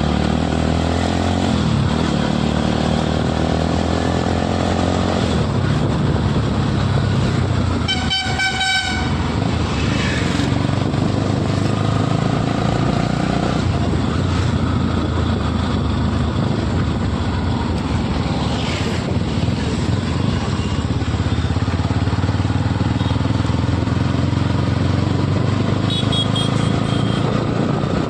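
Bajaj Pulsar NS motorcycle being ridden, its engine running steadily under road and wind noise with small changes in revs. About eight seconds in, a vehicle horn sounds once for about a second, and a short, fainter horn-like beep comes near the end.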